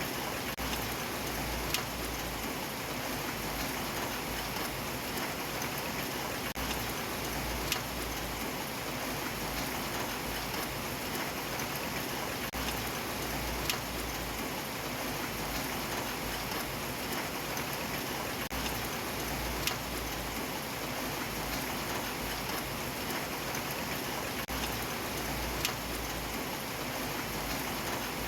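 Steady rain falling, an even hiss of drops, with a sharper drip tap standing out about every six seconds.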